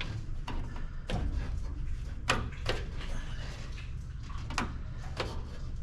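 Irregular sharp clicks and knocks of hand work on a plastic electrical connector, about seven in all, over a steady low rumble.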